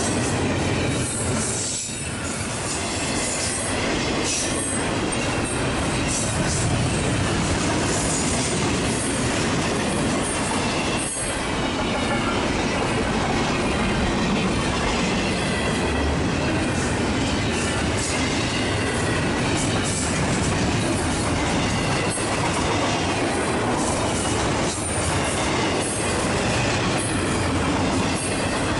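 Double-stack intermodal container train rolling past at close range: a steady, loud rumble and rattle of the well cars' wheels on the rails, with high squealing tones from the wheels coming and going.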